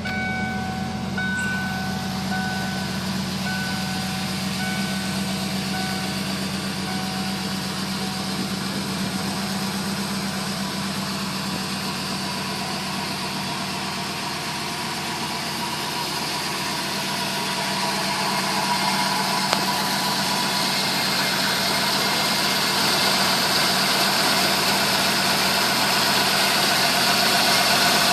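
Turbocharged 5.8 L V8 of a 1993 Ford F-150 Lightning idling steadily, getting louder over the second half. A short electronic chime repeats about once a second during the first few seconds.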